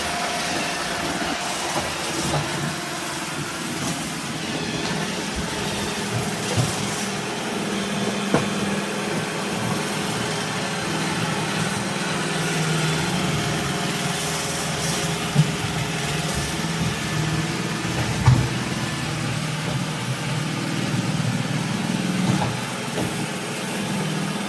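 Robot vacuum running: a steady motor-and-brush hum with hiss above it, and a few short knocks along the way.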